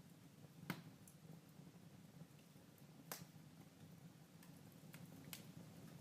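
Wood fire burning in a fireplace, quietly crackling, with three sharp pops spread across the few seconds, the first the loudest.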